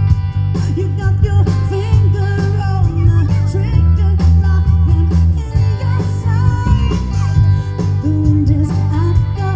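Live rock band playing: electric guitar, bass and drums with a steady beat, and a sung melody over them.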